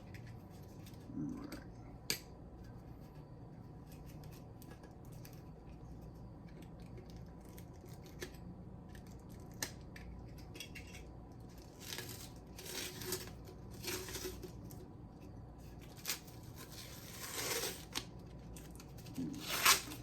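A knife cutting and scraping at the wrapping that hides a mystery beer's label, in short scratchy strokes with tearing and a few sharp clicks.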